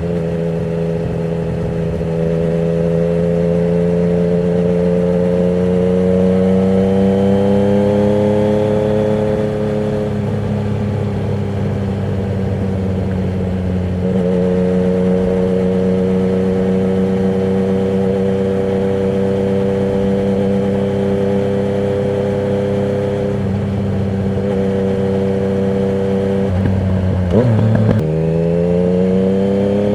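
Yamaha MT-09's inline-three engine through a Termignoni exhaust with the dB killer removed, running under way. Its pitch climbs slowly over the first several seconds, falls away, holds steady for a long stretch, then changes sharply near the end and climbs quickly again.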